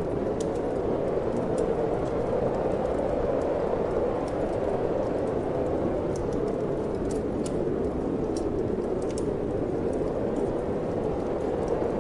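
Wood fire in a fireplace crackling with irregular sharp pops and ticks, over a steady rushing wind.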